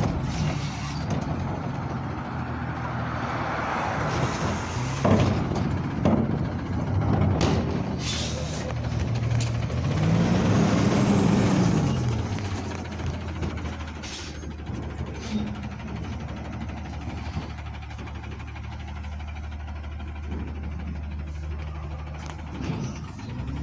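Garbage truck engine running, with the pitch rising and falling back once about ten seconds in. Several sharp knocks and hisses come between about five and eight seconds in.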